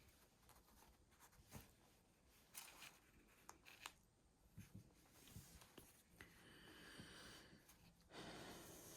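Near silence with faint rustling and small clicks of hand-sewing: needle and thread drawn through cloth, with a couple of longer soft rustles of thread pulled through fabric in the second half.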